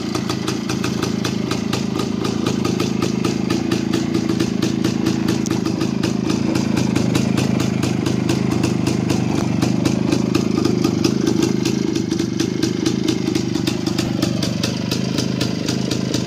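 Jawa 250 type 353/04 single-cylinder two-stroke engine idling steadily with even firing pulses, fitted with CDI ignition. It runs a little louder through the middle and eases back slightly near the end.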